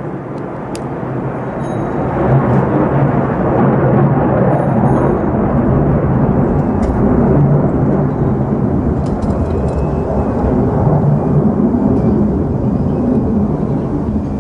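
Jet noise from an F-35A Lightning II's F135 afterburning turbofan engine: a loud, deep rumble that swells about two seconds in and holds steady as the jet flies past.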